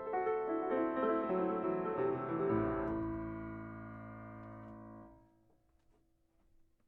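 1892 Chickering 7'8" grand piano: a run of notes stepping downward into a final low chord, held and ringing, then damped about five seconds in.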